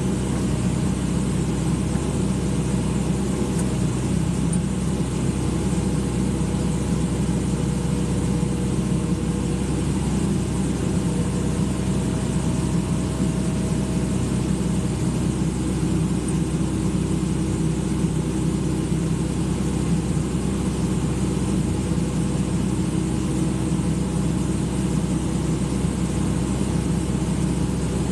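Large diesel engine running steadily at constant speed, without revving up or down.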